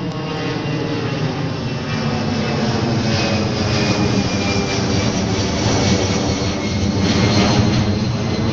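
Boeing 757-200 jet airliner just past low overhead on final approach, its engines a loud continuous rumble with steady whining tones, swelling somewhat louder in the second half.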